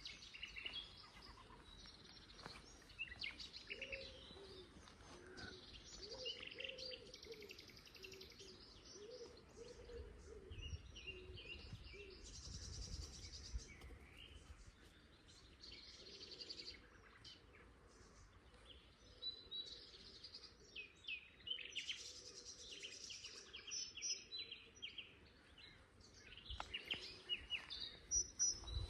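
Songbird song of short varied phrases: clear whistles alternating with quick runs of the same note repeated several times.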